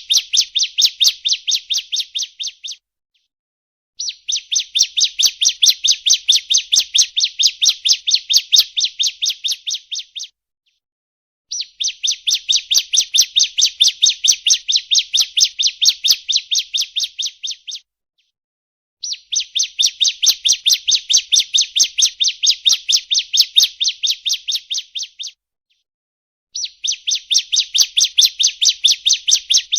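Ciblek (bar-winged prinia) song: rapid, evenly repeated chirping notes, about five a second, in bursts of roughly six seconds. Short pauses of about a second separate the bursts, and each burst tails off slightly in loudness at its end.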